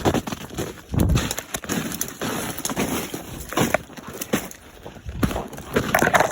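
Footsteps breaking through an ice crust on deep snow: irregular crunches and cracks at a walking pace.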